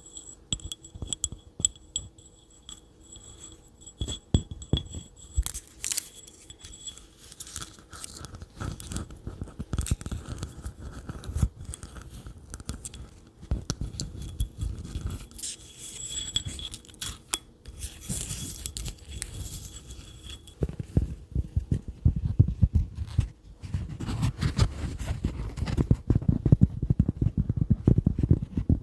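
Close-up ASMR tapping: fingertips and nails tapping and scratching on objects right at the microphone, in quick irregular taps. From about two-thirds of the way in, the tapping turns faster and deeper, with dull low thuds.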